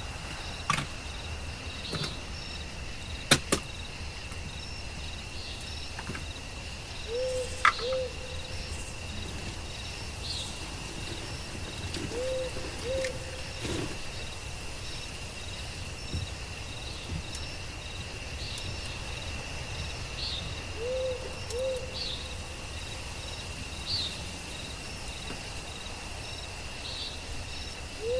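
Forest night ambience: a steady high insect trill, with a two-note hooting call repeated four times, each pair short and about half a second apart. A few sharp knocks come in the first eight seconds, the loudest about three seconds in.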